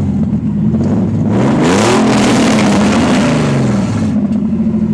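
Nissan 300ZX (Z32) naturally aspirated VG30DE V6 running loud with no exhaust fitted; the revs climb for about a second, a bit over a second in, then fall back.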